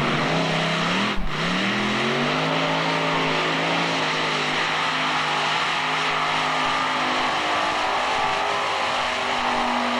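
Modified-class pulling tractor's engine running hard under load. Its pitch dips about a second in, then climbs and holds steady over a constant roar.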